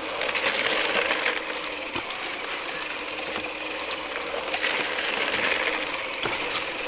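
Gravel and small stones rattling and clinking through a high banker as creek material is fed in, over the steady hum of the running pump and rushing water.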